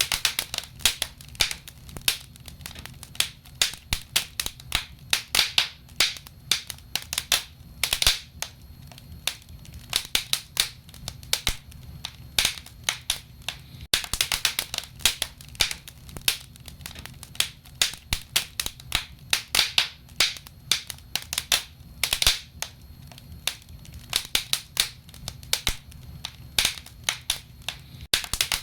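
Wood fire burning in a fireplace, crackling with irregular sharp snaps and pops, several a second, over a low steady rumble.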